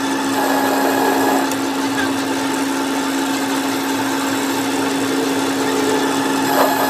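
An electric motor of a workshop machine running steadily at a constant pitch, a hum with a hiss over it.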